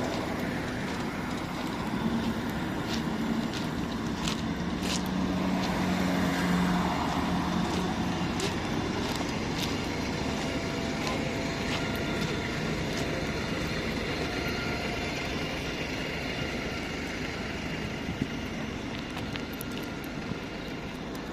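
Motor vehicle engines running amid steady street noise, with an engine hum that swells a few seconds in and a handful of short sharp knocks.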